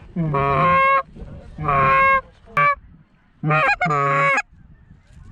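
Goose call blown hard, imitating Canada geese to work an approaching flock: five long, loud, steady honks, two of them drawn out and one short, in a little over four seconds.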